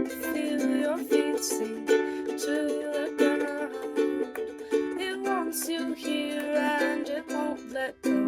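Instrumental music: a plucked string instrument, ukulele-like, strumming and picking a quick run of notes with no singing.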